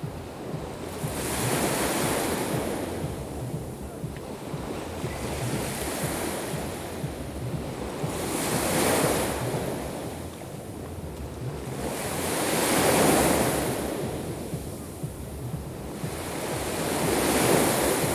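Sea waves breaking and washing on the shore, one swell of surf about every four seconds, with wind rumbling on the microphone.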